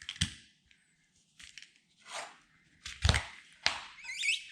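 Stanley knife slicing and pulling at the rubber windscreen seal of a VW T2 bay-window bus: several separate short rasping strokes, with a brief rubbery squeak near the end.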